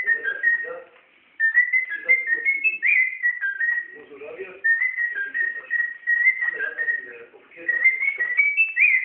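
Pet parrot whistling a tune like a person, in clear stepped notes that climb to a high note at the end of each phrase. The phrase is repeated about twice, with soft lower chattering mixed in between the notes.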